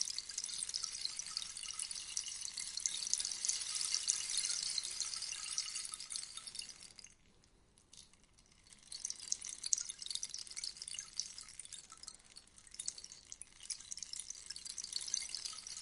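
Rainstick pouring: a dense patter of tiny clicks like falling rain that dies away about seven seconds in. After a pause of about two seconds the patter starts again as the next pour begins.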